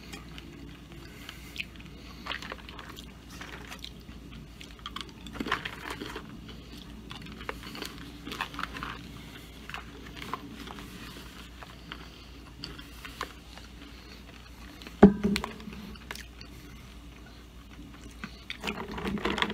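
A person chewing and crunching glazed roasted pecans, with small crackles and clicks scattered throughout over a steady low hum. One sharp knock stands out about fifteen seconds in.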